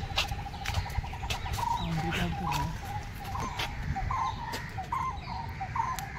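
A bird calling: a pulsing trill for about the first second and a half, then short notes repeated two or three times a second, which the listener takes for a koel.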